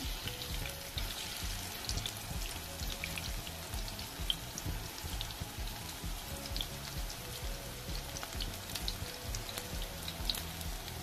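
Corn fritters shallow-frying in hot oil in a nonstick pan: a steady sizzle with many small scattered pops and crackles.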